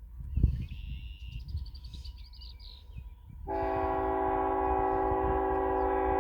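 Norfolk Southern locomotive's air horn sounding one long, steady blast for a grade crossing, starting about halfway through, over a low rumble.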